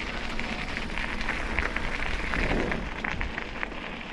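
Steady rolling noise of riding along a path, a low rumble with scattered light clicks and crunches.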